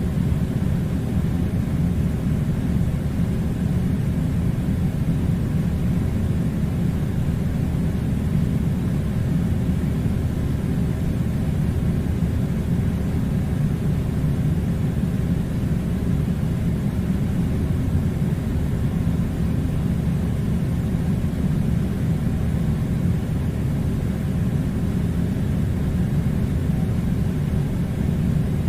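Air conditioner running: a steady low hum and rush of air that does not change.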